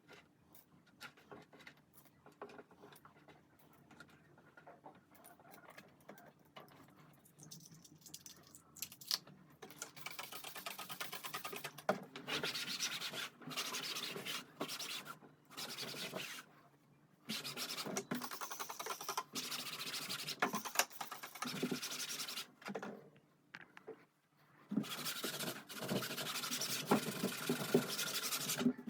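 Faint scattered clicks and light handling, then from about ten seconds in a run of rough rubbing and rustling sounds in bursts with short pauses.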